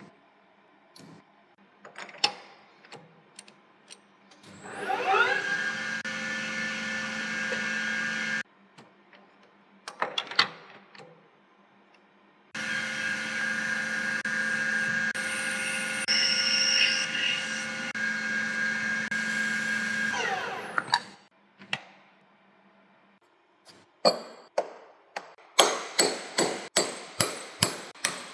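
An electric power tool's motor spinning up with a rising pitch and running steadily for a few seconds, then, after some clicks and knocks of parts being handled, running again for about eight seconds and winding down. Near the end comes a quick series of about a dozen sharp, ringing metal strikes, like a hammer on steel, during disassembly of a rusty gearbox.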